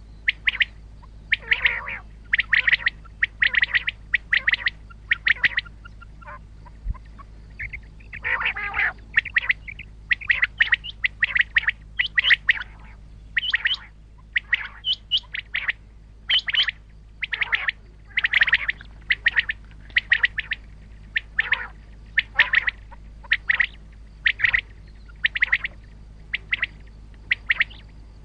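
Common quail calling over and over, short clipped calls about once a second, with a couple of harsher, broader calls mixed in. A steady low hum runs underneath.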